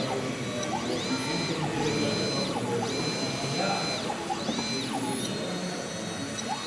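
Small electric motor of an RC model vehicle whining as it speeds up, runs steady and slows again, about four times in a row, over the murmur of a crowded hall.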